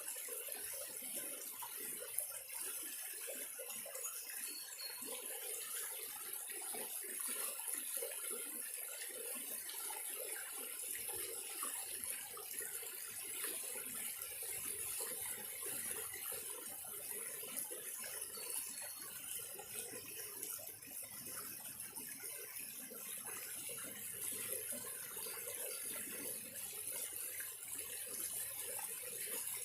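Creek water running steadily, with a few faint, brief high bird chirps over it.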